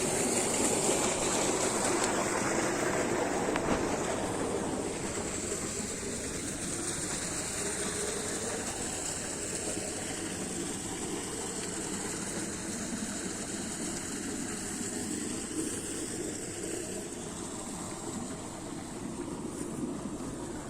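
Eicher 241 tractor's single-cylinder diesel engine running steadily, a little louder in the first few seconds.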